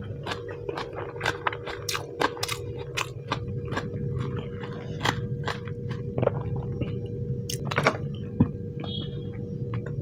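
A person chewing food close to the microphone: wet mouth sounds with many sharp clicks, densest in the first few seconds, over a steady low hum.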